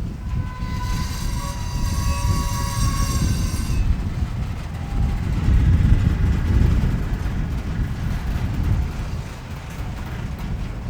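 Freight cars rolling slowly during a shove, with a steady low rumble and, in the first few seconds, a high-pitched metallic squeal of steel wheels on rail lasting about three seconds.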